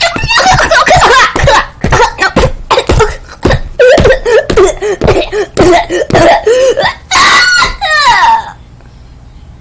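Loud stop-start vocal noises from a person, coughing and laughter-like bursts, that cut off suddenly about eight and a half seconds in.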